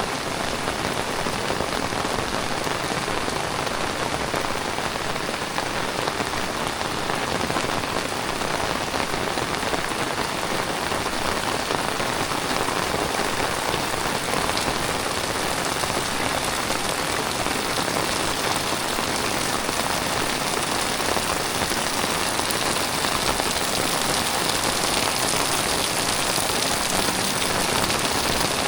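Heavy tropical rain falling steadily, a dense even patter of drops on surfaces.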